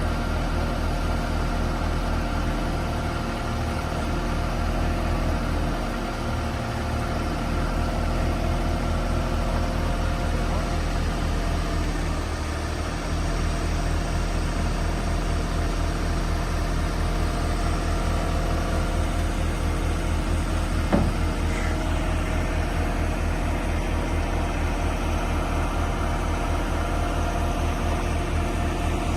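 A vehicle engine running steadily at an even speed, with one sharp click about two-thirds of the way through.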